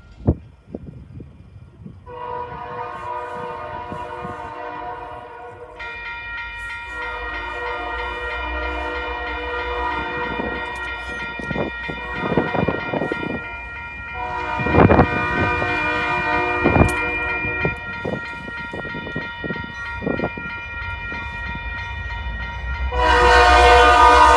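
Locomotive air horn sounding a long, sustained multi-tone blast that starts about two seconds in, fills out into a fuller chord a few seconds later and swells louder near the end, with the knocking and clatter of the passing train underneath.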